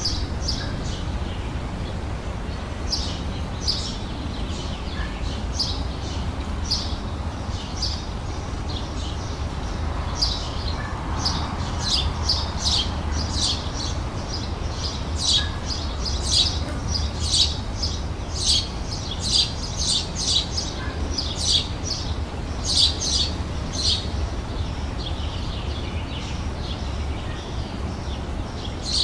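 Songbirds chirping and twittering outdoors: many short, high calls in quick succession, busiest in the middle stretch. A steady low background rumble runs underneath.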